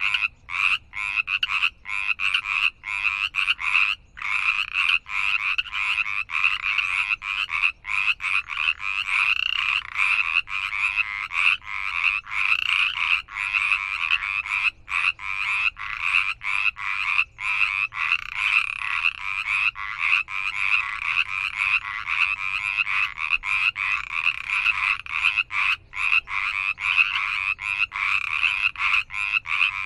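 A chorus of many frogs calling at once, dense overlapping croaks that run on without pause except for brief momentary gaps.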